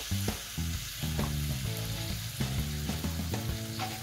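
Shrimp and bamboo shoots sizzling steadily in a hot wok as sauce is added. Background music with a low, stepping melody plays underneath.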